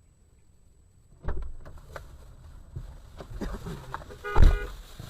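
Dashcam audio of a vehicle collision: a sudden thump about a second in, then knocks and rattles. Near the end comes a short, loud blast with a steady pitch.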